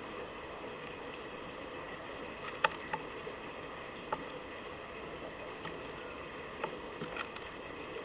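Steady garden background noise with a few short, sharp taps at the feeder, one clearly the loudest about a third of the way in.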